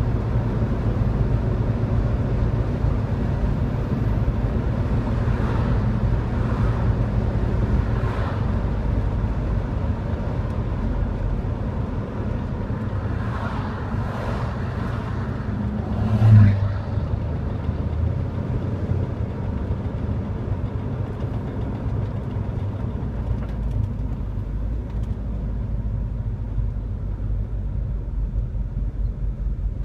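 Engine and road noise from inside a classic Chevrolet Chevelle cruising at steady speed, a steady low rumble. Oncoming cars whoosh past a few times, and a brief louder rumble comes about sixteen seconds in.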